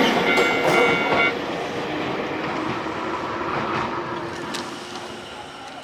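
Nankai Koya Line train running past and moving away, its wheels squealing for about the first second before the rumble fades.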